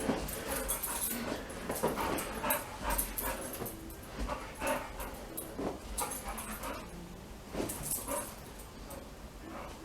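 Pit bull puppy vocalising in short, irregular bouts during tug-of-war play with a toy, with scuffling noises in between.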